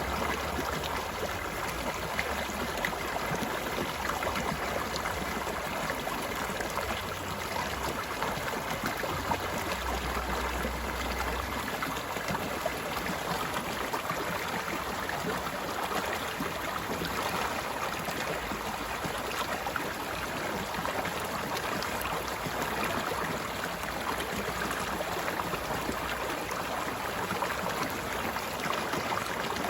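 Water of a stream flowing steadily, an even rushing sound.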